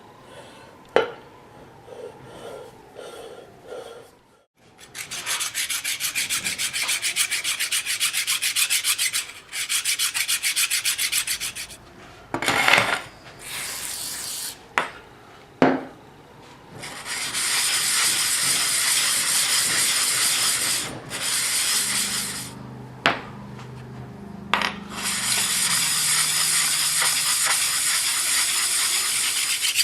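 Rapid scrubbing or brushing on a part in spells of several seconds, with quieter gaps and a few sharp knocks between them.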